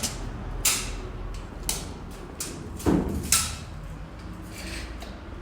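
A few sharp knocks and clacks from gym equipment being handled, the loudest about three seconds in, over a steady low hum.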